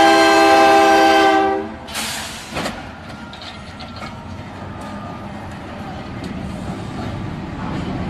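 Kansas City Southern de México diesel locomotive sounding its air horn, a loud chord of several notes that stops about two seconds in, then the train rumbling past over the crossing with wheels clattering on the rails.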